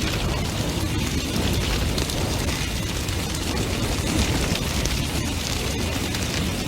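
Large bonfire burning fiercely: a steady low roar of flames with many sharp crackles and pops throughout.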